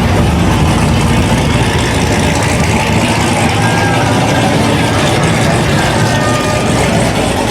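Muscle car engines running steadily at low speed, a continuous deep engine sound with voices mixed in.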